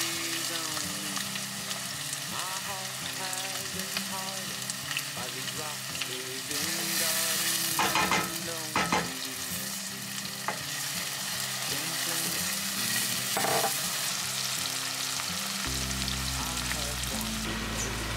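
Diced onion sizzling as it fries in a stainless steel pot while being stirred with a wooden spoon. There are a couple of louder knocks about eight and nine seconds in.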